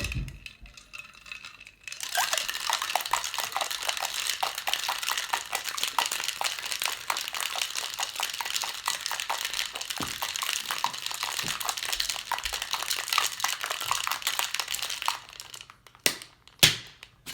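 Cocktail shaker being shaken hard for about thirteen seconds, ice clattering inside in a fast, dense rattle, followed by two sharp knocks near the end.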